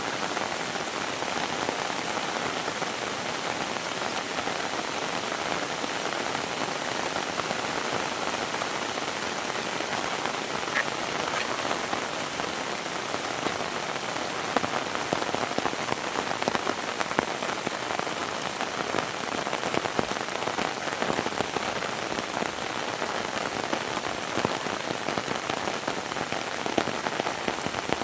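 Heavy rain falling steadily, with many sharp close drop hits over an even hiss; the close hits grow more frequent about halfway through.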